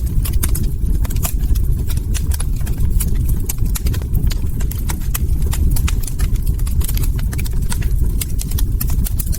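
Log fire crackling: many quick, irregular pops and snaps from burning wood over a steady low rumble.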